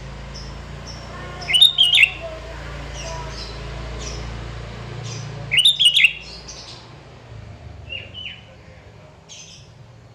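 Sooty-headed bulbul (kutilang) singing: two loud, short whistled phrases about four seconds apart, with softer chirps between them and a low hum underneath.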